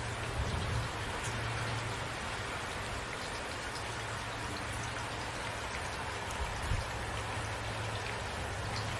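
Steady rain falling, with individual raindrops ticking over a constant hiss. Two brief low thumps stand out, about half a second in and near the end.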